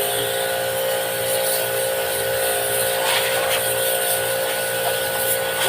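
A small electric motor running steadily with a constant buzz and a hiss over it.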